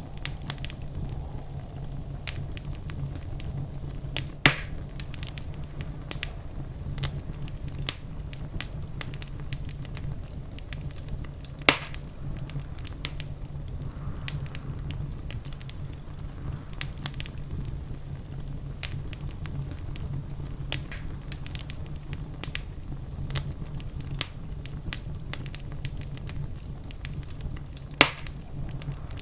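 Wood fire crackling in a fireplace: a steady low rumble with frequent small crackles, and three sharp, loud pops, about four seconds in, near twelve seconds in, and near the end.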